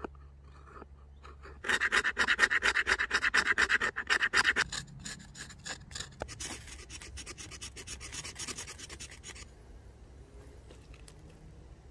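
Fast, rasping scraping strokes, about ten a second, loud for about three seconds, then fainter, lighter scraping for several seconds more before it stops.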